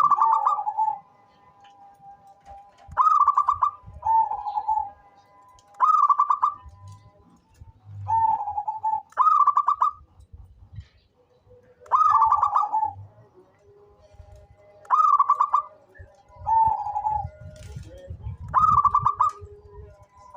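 Zebra dove (perkutut) cooing: short trilled coo phrases, each a quick rippling run that drops to a lower note, repeated about every one to three seconds.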